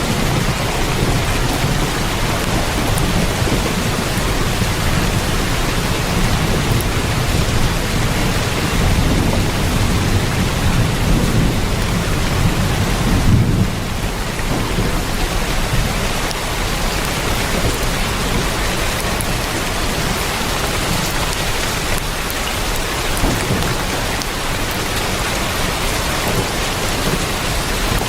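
Heavy rain on a tin roof, a steady dense hiss, with thunder rumbling low underneath through the first half; about halfway the sound briefly dips and the rumble is weaker after it.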